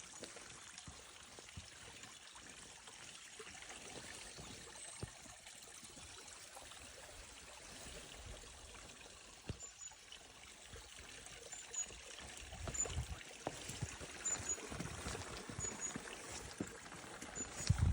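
A small stream trickling and running steadily, with scattered low thumps in the second half, the loudest just before the end.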